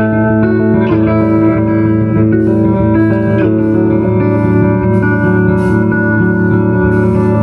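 Live improvised band jam led by guitar, with held notes changing every half second or so over a steady bass line.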